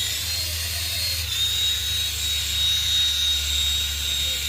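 Radio-controlled helicopter's motor and rotor running with a steady high whine. The whine dips slightly in pitch just over a second in, then holds, over a low hum.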